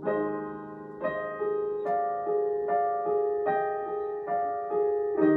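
Instrumental closing phrase played live on a keyboard with a piano tone: single notes struck about two to three a second, each ringing and fading as the song ends.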